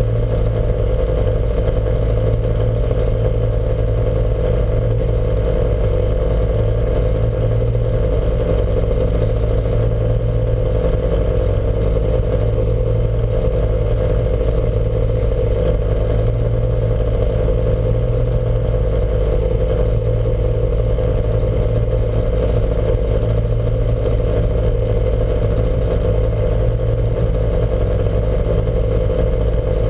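Lancia Montecarlo race car's engine running at a steady speed, its note holding level with no revving up or down.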